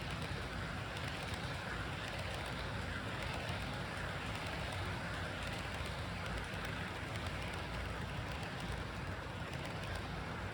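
HO-scale model locomotive running on its track, a steady whir of the motor and the rumble of wheels on the rails.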